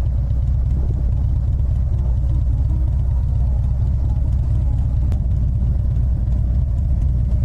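Harley-Davidson Ultra Limited's V-twin engine running steadily while the motorcycle cruises, a low-pitched, even drone with no change in pace.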